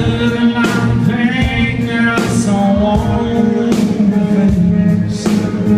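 Live country band music with drums, guitars and a man singing, recorded on a phone in the audience.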